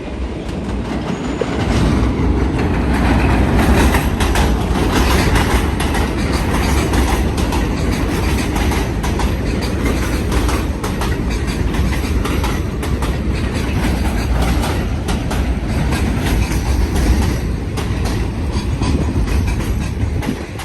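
R46 subway train passing at speed, a loud steady rumble with rapid clacking of wheels over rail joints. It builds about two seconds in and drops away near the end.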